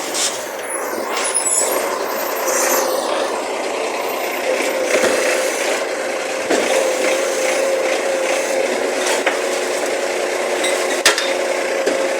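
Recycling garbage truck running, with a steady whine over the engine noise and a single sharp knock near the end.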